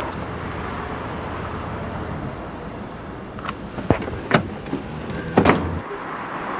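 A car running with a steady low rumble, with a few sharp clicks and knocks about four and five and a half seconds in.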